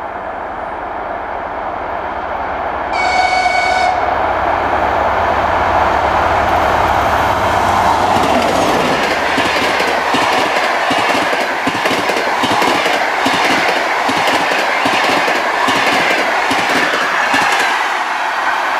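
TEP70 diesel locomotive hauling a passenger express past: its diesel engine rumbles as it approaches, with one horn blast about a second long three seconds in. After the locomotive passes, the coaches' wheels clatter steadily over the rail joints.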